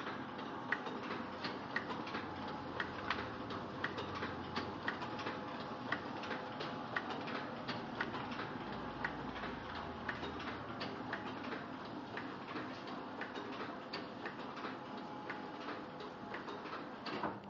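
Komori Sprint 26 sheet-fed offset printing press running, a steady mechanical hum with a regular clicking of about two clicks a second. The sound falls away just before the end.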